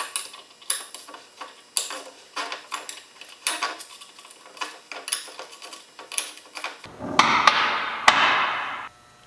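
A wrench clicking in short, uneven strokes as it lightly draws the bolts that hold the ring gear to a Dana 44 differential carrier, pulling the gear on evenly. Near the end a faster, continuous metallic rattle lasts about two seconds and then stops sharply.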